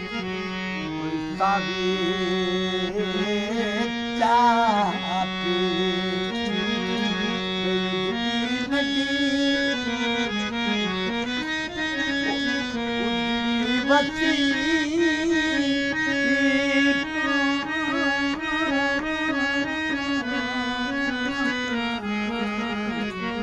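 Qawwali music: a harmonium playing a melody in long held notes that step up and down, with some wavering ornamented passages.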